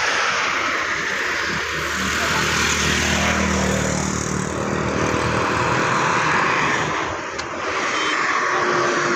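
Stream water rushing steadily, with a low hum underneath for a few seconds in the middle.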